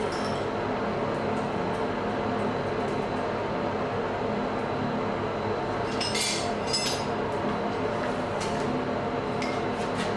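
Blacksmith's forge fire burning steadily with a low, even hum, and a quick cluster of metallic clinks about six seconds in.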